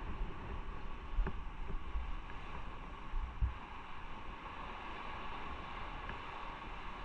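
Onboard sound of a motorcycle ride: steady wind rush and road noise on the microphone with a constant hum, and low wind-buffeting thumps about a second in and again around the middle.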